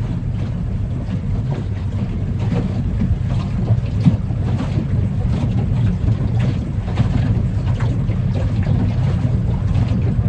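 Engine running steadily at a low, even speed during an oil pressure test, on an engine the owner calls not well but not dead.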